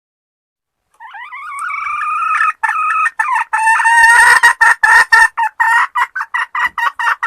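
A female junglefowl (hen) giving its call to summon a male. It opens about a second in with one long, loud, rising note, then breaks into a run of short clipped notes that come faster and faster until it stops.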